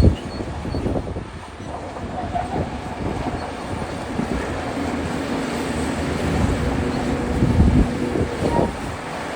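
Shantui DH17C2 crawler bulldozer's diesel engine running steadily while its steel tracks clank, with a few heavy knocks, the loudest about three-quarters of the way through.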